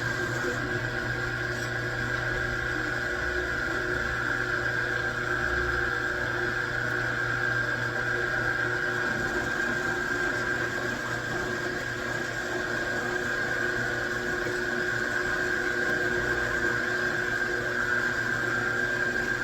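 Machine tool running steadily: a constant motor hum with a steady high whine, unchanging throughout.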